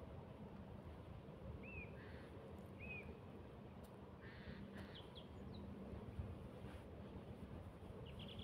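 Faint birds calling: two short arched chirps a little over a second apart, then a few harsher distant calls, over a low steady hum.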